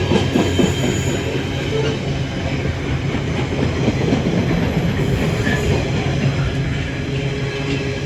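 Container freight train hauled by a Class 66 diesel rolling past, a steady loud noise of wagon wheels on the rails with some clicks over the rail joints.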